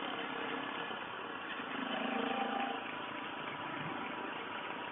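Suzuki DR650's single-cylinder four-stroke engine running steadily on the road, swelling slightly about two seconds in.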